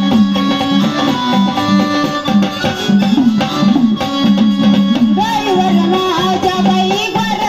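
Instrumental passage of a Marathi devotional folk song: hand drums with bending low notes keep the beat under sustained melodic instruments, and a wavering melody line comes in about two-thirds of the way through.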